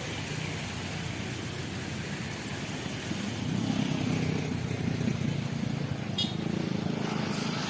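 Steady outdoor vehicle engine rumble, growing louder about three and a half seconds in.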